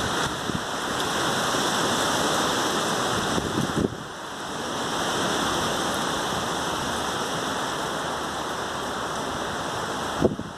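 Strong wind ahead of a rainstorm, a steady loud rushing that dips briefly about four seconds in and again near the end, with a short knock just before the end.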